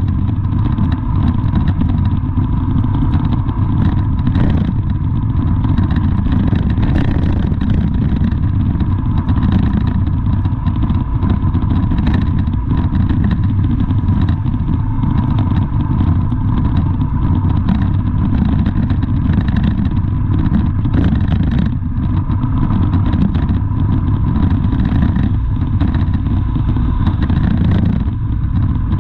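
Motor vehicle running: a steady low rumble of engine and road noise, with a thin steady whine and some light clatter.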